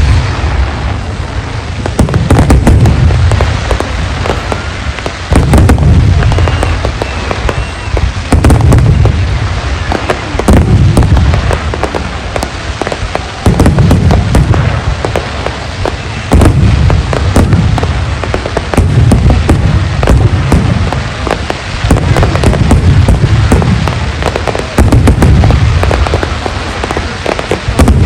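Large aerial fireworks display: deep shell bursts boom every two to three seconds, with dense crackling and popping between them.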